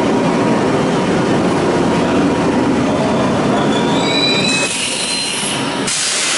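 Kintetsu limited express train pulling in to a stop: a steady rumble of wheels and running gear, then thin high-pitched brake squeal from about three and a half seconds in, followed by a sudden hiss as it slows to a halt.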